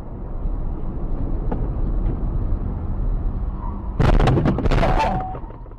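Steady road and engine rumble heard from inside a car, then about four seconds in a sudden loud crash that lasts about a second: a vehicle collision caught on a dashcam.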